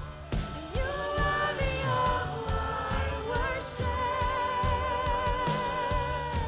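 Gospel worship song played live by a band with drums, singers carrying the melody and holding one long note through the last couple of seconds.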